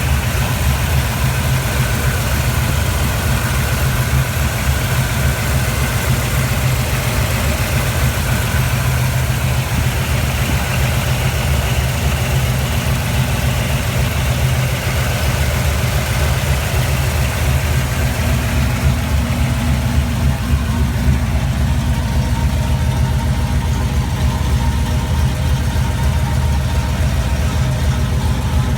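1980 Jeep CJ7 engine idling steadily.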